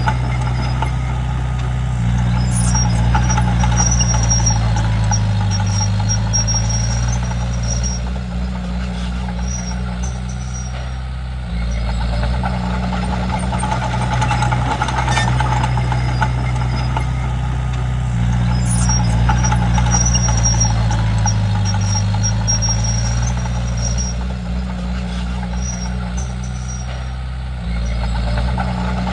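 Komatsu D31P bulldozer's diesel engine running under load while working, its pitch sagging and recovering in a repeating cycle. A faint high-pitched whine comes and goes over it.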